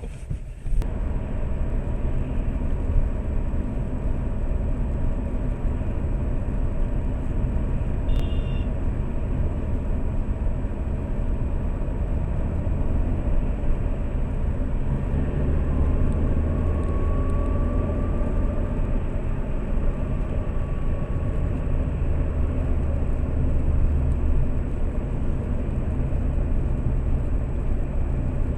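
Engine and road noise of a moving Lada Priora, heard from inside the cabin: a steady low rumble that gets louder within the first second. A brief high tone sounds about eight seconds in.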